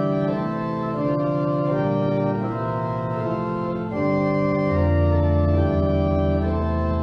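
Organ playing slow, sustained chords that change every second or so, with a deep bass note entering about two-thirds of the way through.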